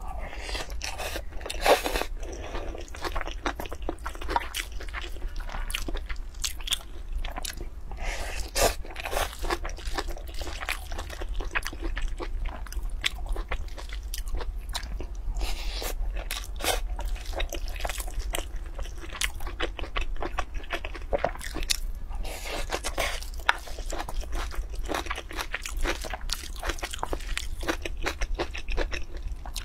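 A person chewing mouthfuls of stir-fried rice and shredded vegetables, with irregular crisp crunching sounds throughout.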